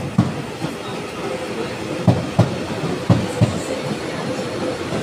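TransPennine Express Class 802 train rolling slowly into the platform, its wheels knocking over the rail joints in quick pairs as each bogie passes, over a steady hum.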